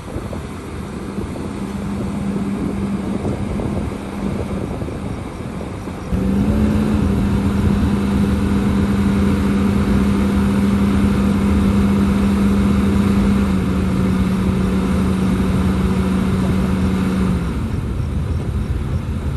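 Diesel engine of heavy earthmoving machinery running at high, steady revs. It gets much louder about six seconds in, then eases off near the end.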